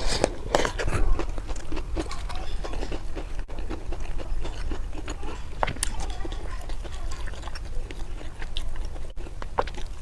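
Close-miked eating: a person biting and chewing food, with many short clicks and smacks coming irregularly throughout.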